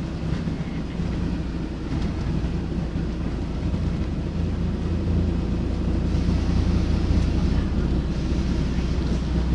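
Scania D9C diesel engine of a Scania K94UB bus running with a steady low drone, growing louder about halfway through.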